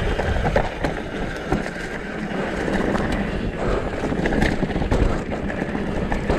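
Downhill mountain bike rolling fast over a rough, rocky dirt trail: wind rumbling on the microphone, tyre noise, and scattered clicks and knocks as the bike rattles over rocks.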